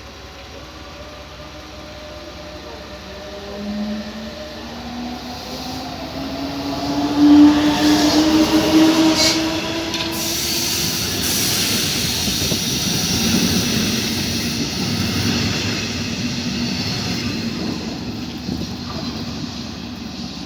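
A train moving through the station. A rising whine climbs over the first ten seconds, and the rolling noise is loudest about seven to nine seconds in, with a few sharp clicks, before it fades slowly.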